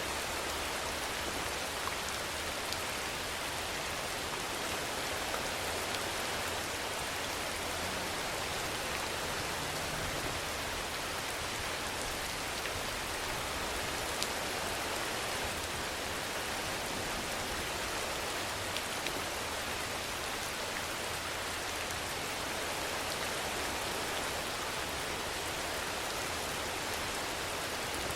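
Steady rain falling evenly, a constant hiss with a few faint drop ticks now and then.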